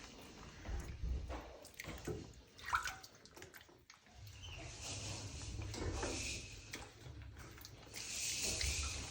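Water splashing and sloshing in a bathtub, with a few separate splashes at first and a steadier wash of water from about four seconds in.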